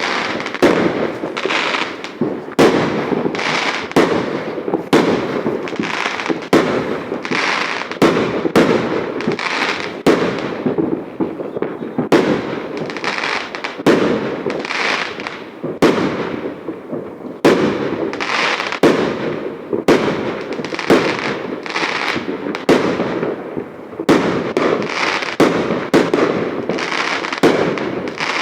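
Aerial fireworks going off in a continuous barrage: sharp bangs of shells bursting, one to three a second, each trailed by crackling. Loud.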